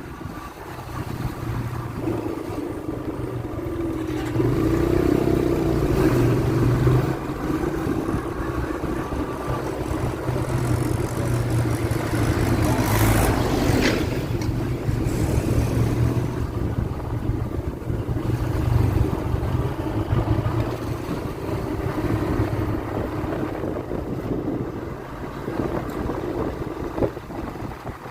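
A vehicle engine running steadily with road noise while driving, with a brief louder swell a little before halfway through.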